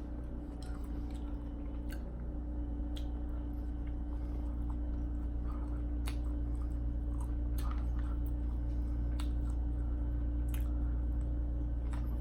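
A person chewing food, with wet, squishy mouth sounds and a few sharp clicks, over a steady low hum.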